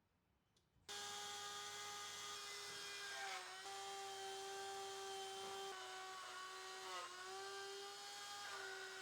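An electric power tool's motor starts suddenly about a second in and runs with a steady high whine. Its pitch dips briefly several times, as when the tool bites into the work and takes load.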